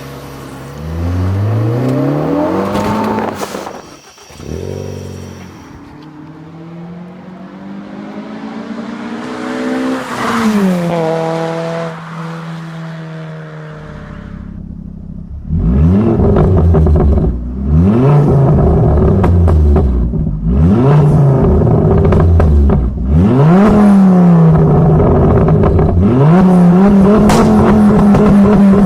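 Ford Focus ST engine through an aftermarket exhaust, revved again and again across several spliced clips: a climbing rev, a long rise in pitch that drops sharply, then, loudest, a run of quick free-revs that rise and fall, ending in a held high rev.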